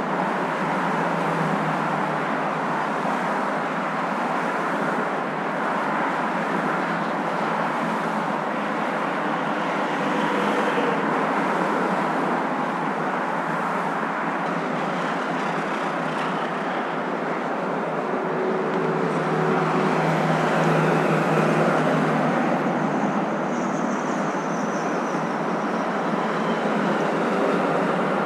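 Moving car's steady road and engine noise, an even rushing hum with no deep bass, swelling slightly about twenty seconds in.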